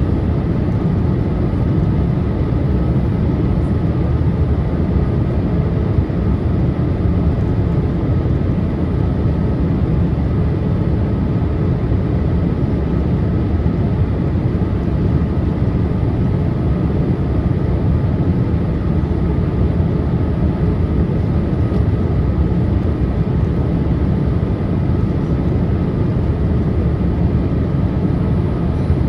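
Steady cabin noise inside a Boeing 787-8 airliner on its approach: the low rumble of the jet engines and airflow, with faint steady tones over it.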